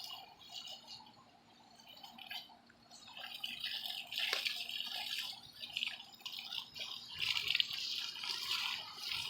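Garden-hose water spraying onto the fins of a central air conditioner's outdoor condenser coil and splashing off, as the soaked-in dirt is rinsed out. It is faint for the first few seconds, then picks up about three seconds in and comes in uneven surges.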